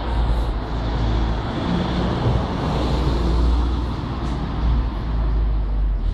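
Restored Porsche 944's engine running steadily with a deep rumble.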